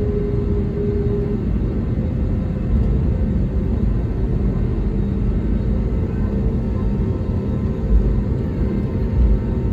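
Jet airliner heard from inside the cabin: a steady, loud engine rumble with a low, even drone.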